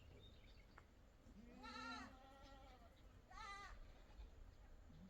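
A goat bleating twice: a longer bleat a little over a second in, then a short one about three and a half seconds in.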